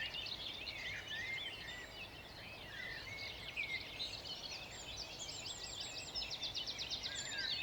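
Several songbirds singing at once in a dawn chorus, overlapping chirps and warbles. In the second half a fast trill of repeated high notes joins in.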